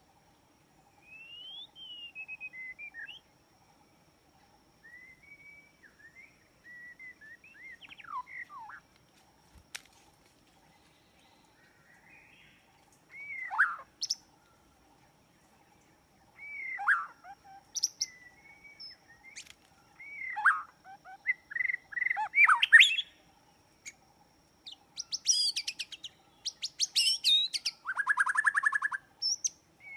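Birds chirping and calling: short whistled notes and sliding calls, sparse at first, growing busier and louder in the second half, with rapid trills near the end.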